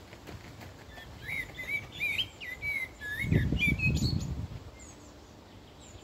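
A songbird singing a quick phrase of short whistled notes that slide up and down, starting about a second in and lasting some three seconds. A low rumble comes in over the song about three seconds in and is the loudest thing heard.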